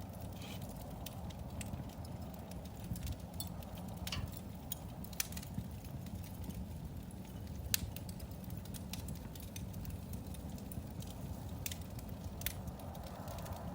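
Fire burning in a fireplace: a steady low rumble with scattered sharp crackles and pops, the sharpest about eight seconds in.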